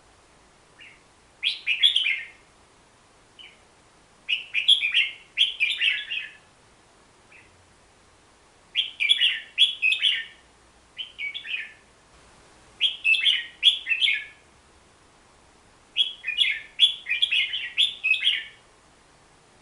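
Crested bulbul (merbah jambul) singing: short phrases of quick chirping notes, repeated every few seconds, with an occasional single short note in the gaps.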